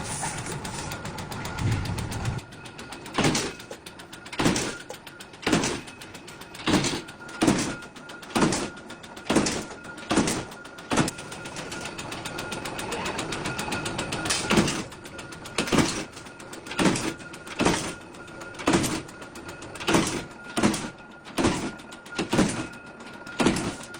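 Heavy knocks in a steady rhythm, about one a second, over a faint steady high hum.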